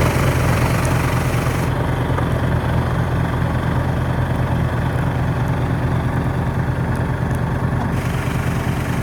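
Snowblower engine running steadily and loudly while clearing a snowed-in driveway.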